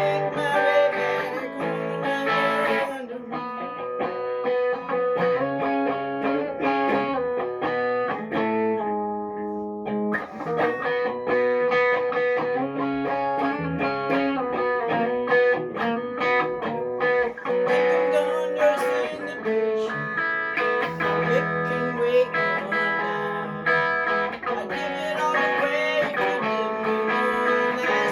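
Guitar music, plucked notes ringing one after another.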